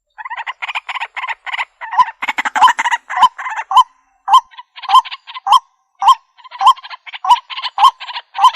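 Waterhen (jal murgi) calling in a long, rapid series of harsh, croaking notes, with louder hooked notes repeating about every half second and a brief pause about four seconds in.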